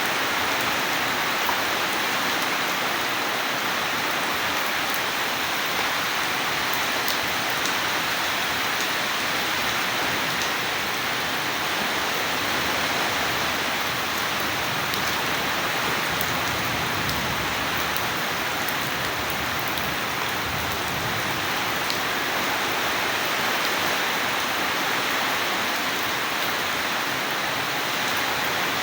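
Steady heavy rain falling, an even hiss with faint scattered drop ticks and no thunder.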